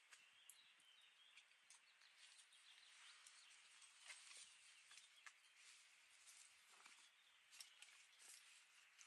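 Near silence: faint outdoor ambience, a soft hiss with scattered faint ticks throughout.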